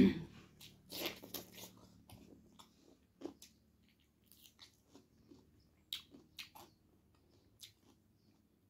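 A sharp knock right at the start, then close-up mouth sounds of someone eating by hand: chewing with short, scattered clicks and smacks.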